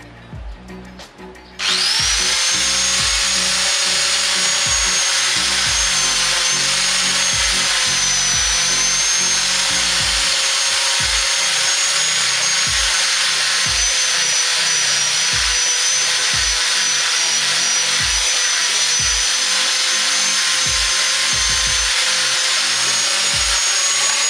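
Ossel GT091 angle grinder with a sanding pad switched on about two seconds in. Its motor spins up quickly to a steady high whine and runs at full speed while the sandpaper disc is worked over a wooden plank.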